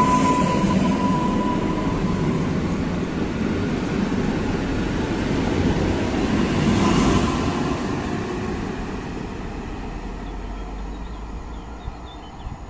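ED78 electric multiple unit pulling out of the station: wheels running on the rails, with a high steady whine that dies away about two seconds in. A louder rush comes about seven seconds in as the last car goes past, then the running noise fades as the train moves off.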